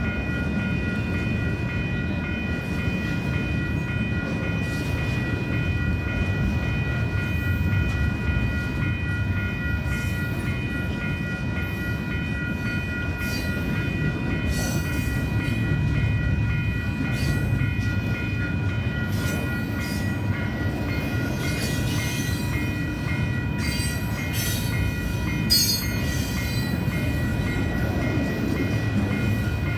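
Double-stack intermodal freight train of container well cars rolling past with a steady low rumble of wheels on rail. A grade-crossing bell rings in an even pulsing rhythm throughout, and short wheel squeals and clanks come through in the second half.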